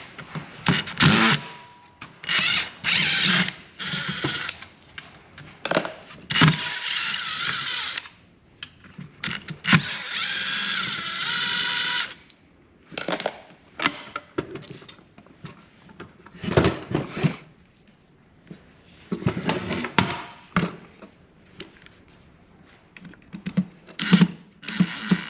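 Power drill run in bursts of one to two seconds, backing out the fasteners of a table saw being taken apart, with knocks and clatter from its parts between the bursts.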